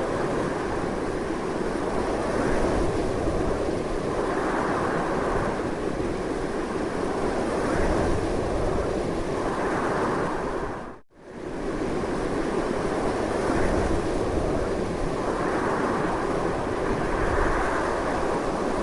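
Strong wind blowing steadily, rising and falling in slow gusty swells. About eleven seconds in it fades out to near silence for a moment and swells straight back up.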